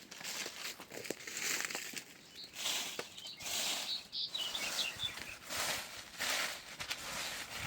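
A series of rustling swishes, several in a row, with a few faint bird chirps about midway.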